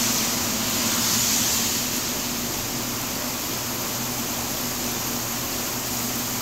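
Heavy rain falling steadily, a dense even hiss, a little louder in the first two seconds. A faint low steady hum runs underneath.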